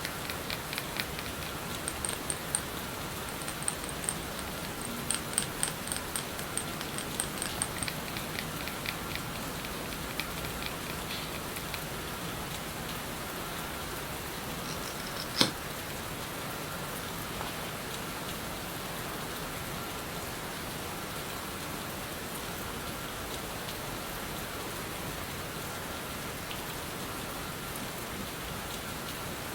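Steady rain sound as an ASMR background, with a run of small quick clicks and taps over the first eight seconds or so and one sharp click about fifteen seconds in.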